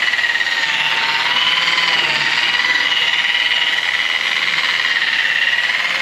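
Power polisher running steadily with a high whine that wavers slightly in pitch, buffing aluminum brightwork.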